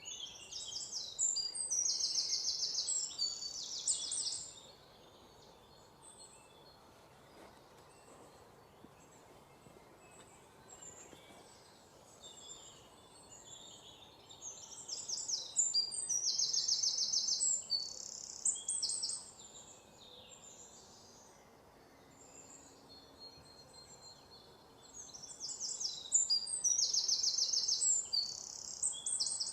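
Birdsong: a high-pitched song of rapid trills and chirps lasting about four seconds, heard three times about eleven seconds apart, with faint scattered chirps from birds between.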